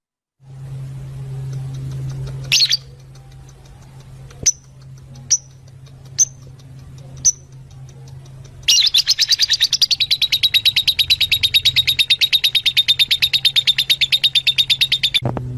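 Fischer's lovebirds calling: a few single sharp chirps, then, from a little past halfway, a fast, even run of chirps, about ten a second, lasting several seconds. A low steady hum runs underneath.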